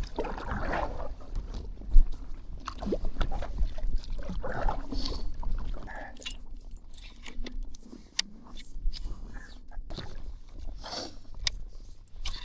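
Knocks, clicks and splashy rustles of fishing gear being handled in a kayak, with water moving around the hull, irregular, one sharp knock about two seconds in, over a low steady rumble.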